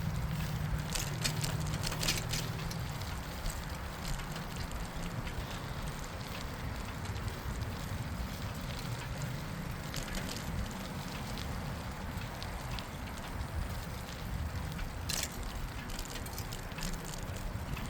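Riding a bicycle: a steady rush of tyre noise and wind on the microphone, with scattered light clicks and crackles. A vehicle's low rumble fades away over the first few seconds.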